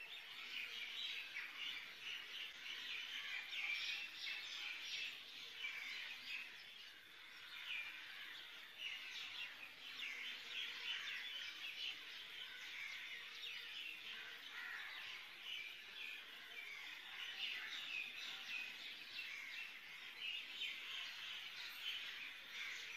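Small birds chirping continuously in a dense chorus of short, high chirps.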